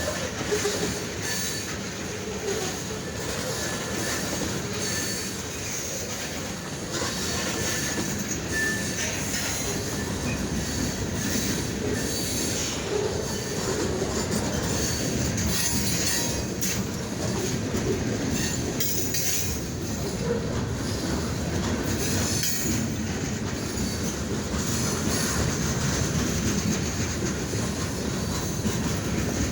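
Kiamichi Railroad freight train rolling past at steady volume: wheels running on the rails with scattered clicks and knocks and an occasional faint high squeal.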